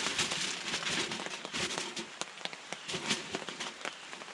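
Aluminum foil crinkling and crackling as it is pressed around a cast iron grill, in irregular sharp ticks that thin out and grow quieter.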